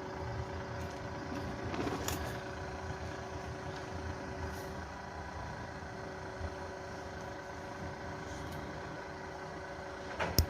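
A motor vehicle's engine idling steadily: an even low rumble with a faint held hum. A single sharp click comes just before the end.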